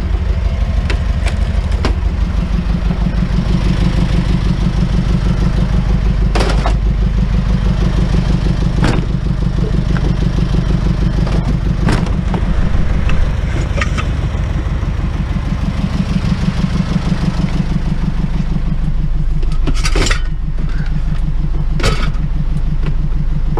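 Truck engine running steadily with a fast, even pulse, broken by a few sharp knocks and rattles.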